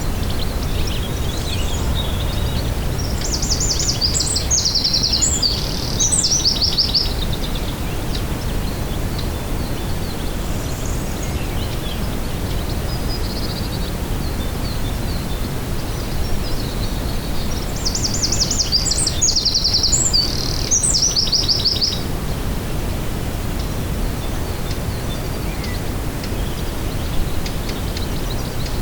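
A songbird singing two rapid, trilling phrases about fifteen seconds apart, over a steady low rumble.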